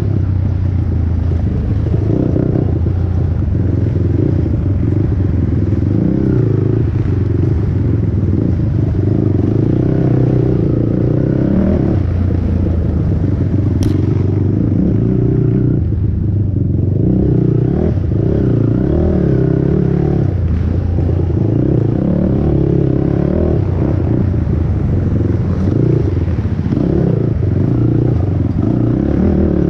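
Honda TRX450R's single-cylinder four-stroke engine at race pace, its revs rising and falling with throttle and gear changes, with rattling from the quad over rough ground. A single sharp click about halfway through.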